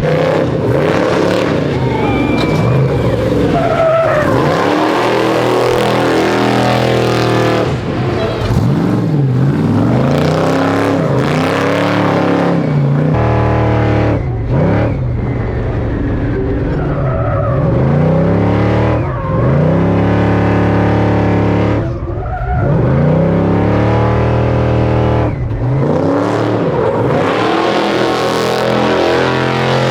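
Prerunner race truck's engine revving hard through a dirt course, its revs climbing and dropping again and again as it accelerates, lifts and slides.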